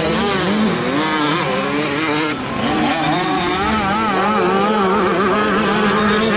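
Several 85cc two-stroke motocross bikes racing together, their engines revving up and down as the riders work the throttle.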